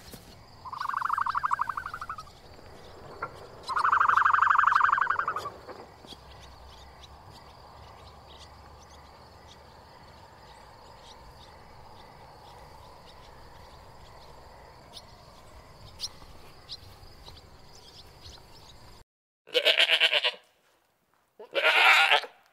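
An animal bleating: two wavering calls in the first six seconds, then two louder, harsher bleats near the end after a sudden cut. Between them a faint steady background with scattered ticks.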